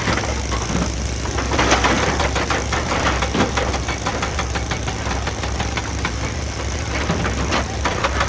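Excavator's diesel engine running steadily, with a dense clatter of quick knocks over it, loudest about two seconds in.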